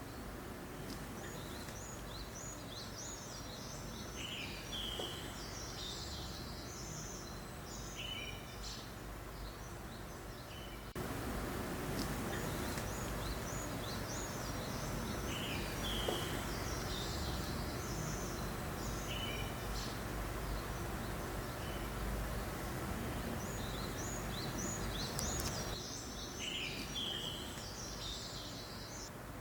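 Songbirds chirping in clusters of short high calls over a steady hiss of wind. The background noise steps up suddenly about a third of the way through.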